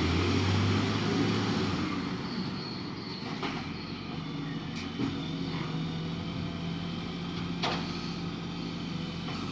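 Garbage truck's engine running, loudest at the start and then easing off, with a few short sharp clunks or hisses.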